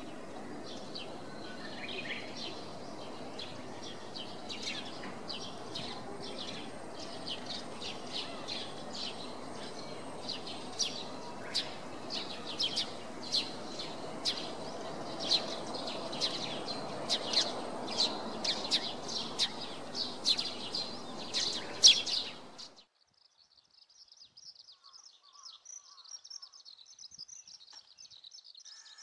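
Small songbirds chirping: short, sharp high calls, sparse at first and coming about twice a second in the second half, over a steady low background noise. Just over 22 seconds in, the sound cuts off abruptly, leaving only faint high twittering.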